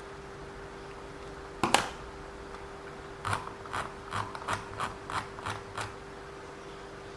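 Small mechanical parts of an RC car's drivetrain being handled: one sharp knock, then a run of about eight quick clicks, roughly three a second.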